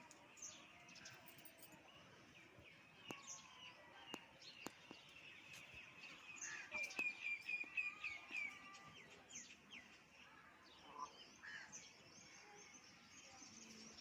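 Faint bird chirping, with a run of quick high chirps, about five a second, a little past the middle, and a few sharp clicks scattered through.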